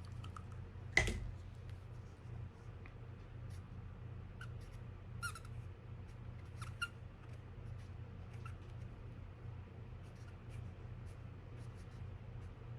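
Room tone with a steady low hum, a single sharp knock about a second in, and a few faint scattered clicks.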